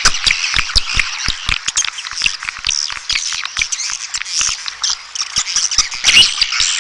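Swiftlets calling: a dense chatter of high chirps with many quick, sharp clicks in among them, the sound played to draw swiftlets to a nesting house.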